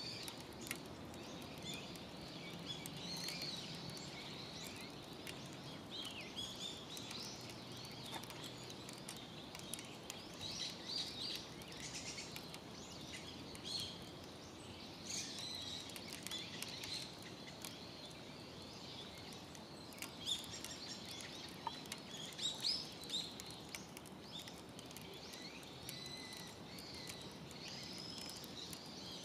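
Small birds chirping and twittering over a low steady background noise, with scattered faint clicks and crackles.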